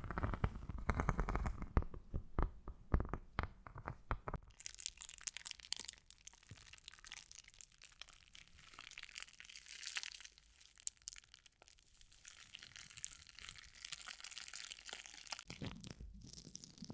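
Close-miked ASMR crinkling and crackling. For the first few seconds there are dense, bassy clicks and knocks. Then, about four seconds in, a fine, high crackle takes over and carries on for about ten seconds.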